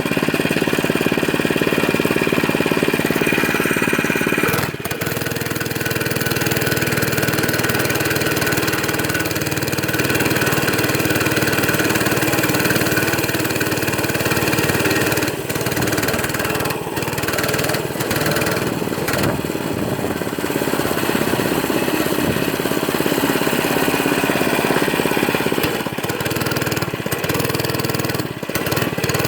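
Small motorcycle engine running steadily, with a brief dip about five seconds in.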